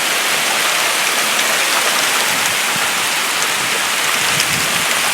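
Hail and heavy rain pelting down: a loud, steady hiss with scattered sharp ticks of hailstones striking.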